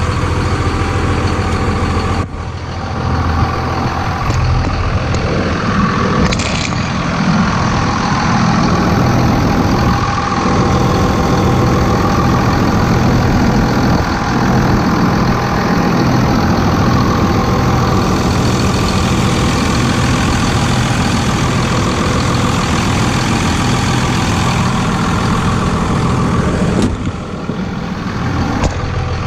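A 2001 Dodge Ram 2500's 5.9-litre 24-valve Cummins turbo diesel idling steadily through a 4-inch MBRP turbo-back exhaust. The sound dips briefly about two seconds in and again near the end.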